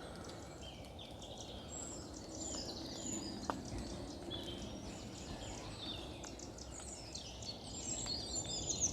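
Eurasian treecreeper singing: high, thin song phrases, one ending in a fast falling trill near the end, among other birdsong over a low background rumble.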